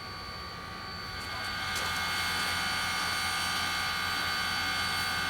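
Steam-hauled train running past, several steady high-pitched tones over a low rumble; it grows louder about a second and a half in.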